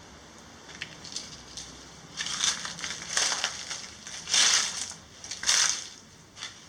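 Crunching, as of something brittle being crushed: four loud crunches about a second apart, with a few fainter clicks before them.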